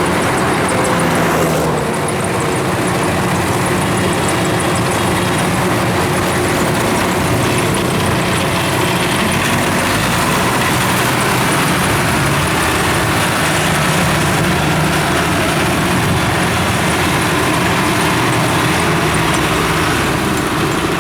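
Farm tractor's diesel engine running steadily as the machine crawls down over a dirt embankment.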